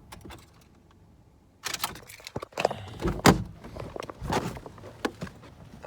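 A car door is opened and someone climbs out, with rustling and clicks, then the door shuts with a heavy thunk about three seconds in.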